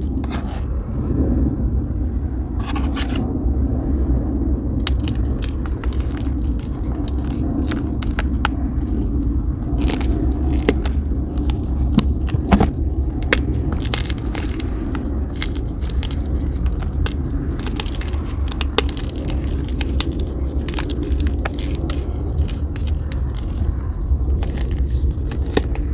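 Blocks of gym chalk being crumbled and crunched by hand: a dense, irregular run of sharp crackles and crunches over a steady low scraping rumble.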